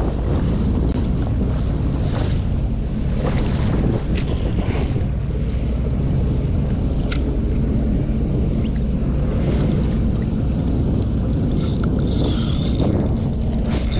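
Jet ski engine running under way, a steady low drone with wind buffeting the microphone and water rushing past.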